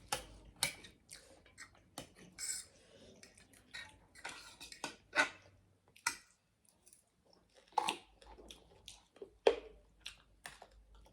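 Scattered short clicks and clinks of cutlery against dishes, with brief eating noises in between.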